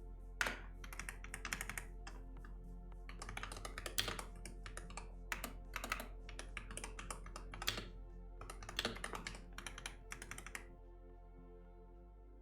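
Typing on a computer keyboard in irregular bursts of key clicks, stopping near the end, over soft background music.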